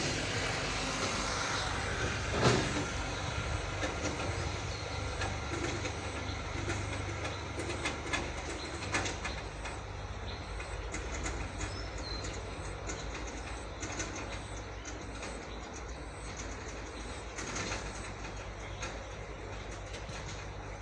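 Mahindra tractor's diesel engine running steadily, with scattered clicks and knocks over it.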